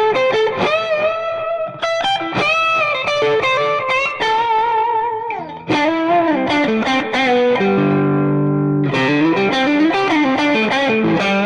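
Strat-style electric guitar on its neck pickup, playing a lead solo through an Xotic RC Booster with its gain at maximum: a light, Strat-style overdrive. Single-note lines with bends and vibrato, a brief break about halfway, then held double stops.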